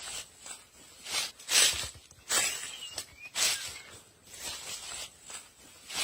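Rustling through leaves and undergrowth in a run of short bursts, about one a second, over a thin steady high-pitched tone.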